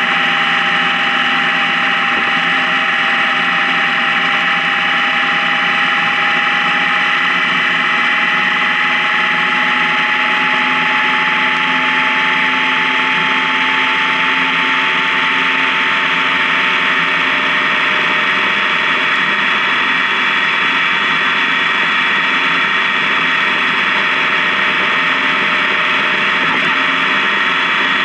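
Honda Gold Wing motorcycle cruising on a highway: a steady engine and drivetrain drone mixed with wind and road noise, its pitch creeping slowly higher as the bike gradually picks up speed.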